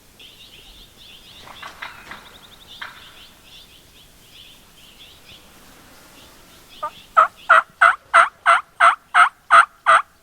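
Wild turkey yelping: a loud, evenly paced run of about eleven yelps, roughly three a second, starting about seven seconds in. A softer call comes about two seconds in, and faint songbird chirping sounds behind.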